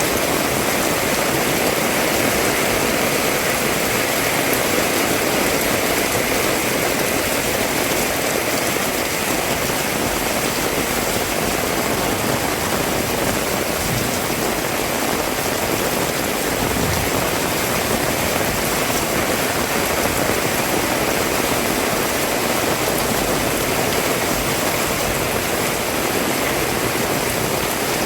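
Heavy rain falling steadily, an even, continuous hiss of downpour.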